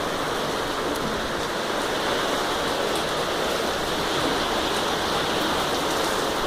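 Heavy rain pouring down in a steady, dense hiss, with scattered drops ticking.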